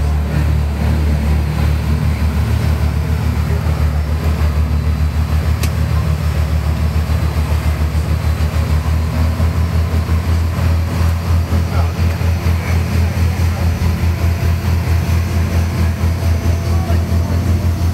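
A boat's engine running steadily, a loud low throb pulsing several times a second.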